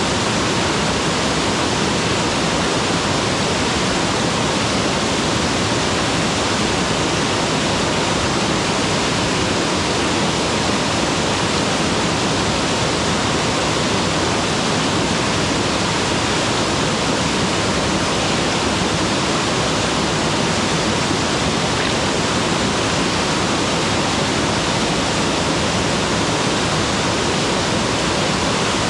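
Waterfall pouring steadily: a dense, even rush of falling water with no breaks or changes.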